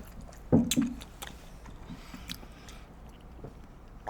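Close-miked eating sounds: a loud swallowing gulp about half a second in, then soft chewing with small wet mouth clicks.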